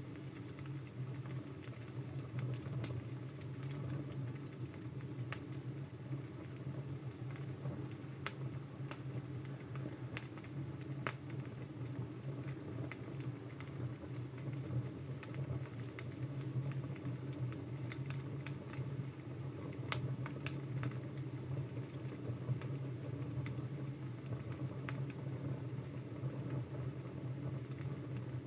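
Crackling wood fire: a steady low rush with scattered sharp pops at irregular moments.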